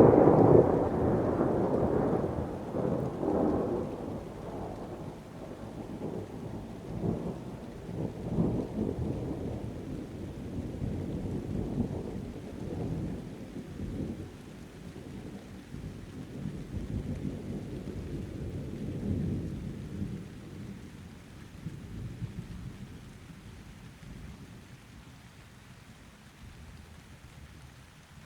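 A thunderclap bursts in loudly at the start and rolls into a long rumble with several swells, fading away over about twenty seconds, with rain falling underneath.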